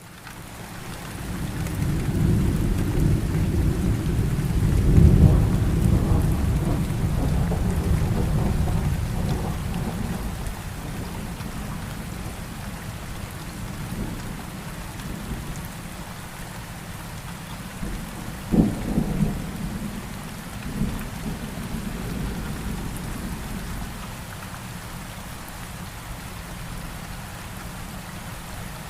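Steady rain falling, with a long roll of thunder that builds over the first couple of seconds, is loudest about five seconds in and dies away by about twelve seconds. A shorter, sharper thunderclap comes about eighteen seconds in, with a smaller one soon after.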